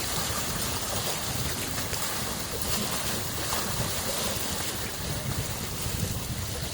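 Small freshwater lake waves washing steadily onto the shore, a continuous wash of water with gentle swells.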